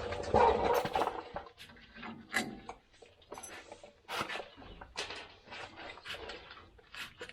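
Metal clanks, knocks and scrapes of tools and parts during work on a pickup's rear drum brake, with the loudest, noisy scrape in the first second followed by scattered sharp knocks.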